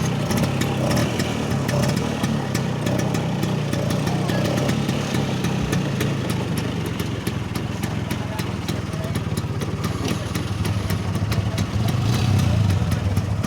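Vespa scooter engine running steadily, a low, even engine hum with a fine rapid ticking over it.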